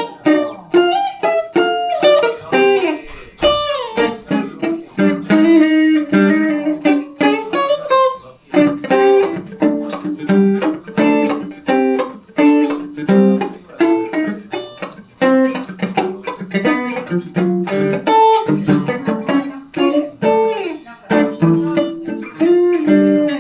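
Solo electric guitar, a Van Zandt Telecaster through a Roland JC-120 amplifier, played live in a busy stream of plucked single notes and chords.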